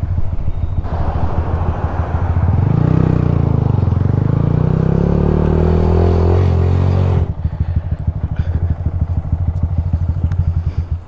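Motorcycle engine running as the rider slows to pull over, with a rush of wind noise that cuts off suddenly about seven seconds in, leaving the engine idling with a steady low pulse; the engine is switched off right at the end.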